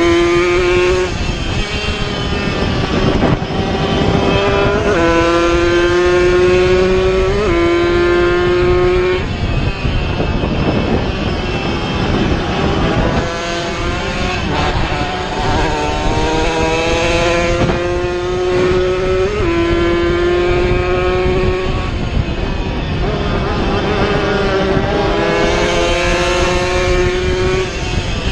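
Two-stroke racing motorcycles running hard, engine pitch climbing through each gear and dropping sharply at each shift, again and again.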